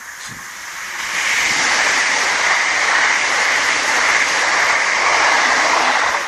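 British Rail Class 365 electric multiple unit passing at speed: a loud, steady rush of wheels on rail and air, building up about a second in.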